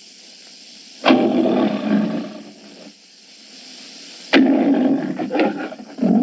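Three loud roars, each starting suddenly, about a second, three and a half seconds and five seconds in, over the steady hiss of an old film soundtrack.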